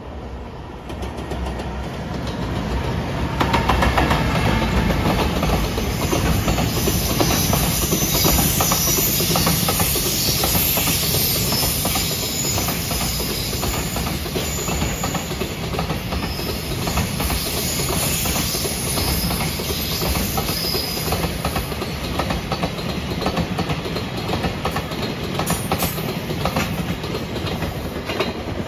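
Freight train of container wagons passing close by: a continuous clatter of many wagon wheels over the rail joints, building up over the first few seconds as the train arrives and then running on steadily as the wagons roll past.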